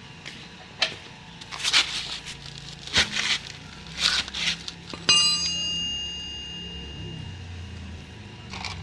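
Hand tools working at a bolt on a motorcycle fork: a few short scraping, rasping strokes, then about five seconds in a sharp metal clink that rings on and fades.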